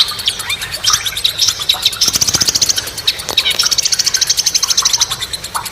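Birds singing, a busy mix of short chirps and upward-sliding calls, with two long, rapid, high trills about two seconds in and again from about three and a half to five seconds.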